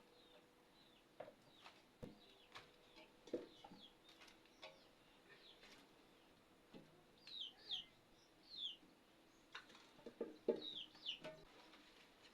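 Faint bird calls: short falling chirps and a few lower calls, with scattered light clicks.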